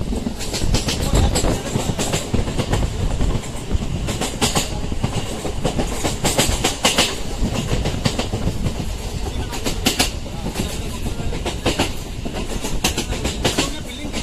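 MEMU electric local train running at speed, heard from inside the coach: a steady rumble with irregular wheel clatter over the rail joints.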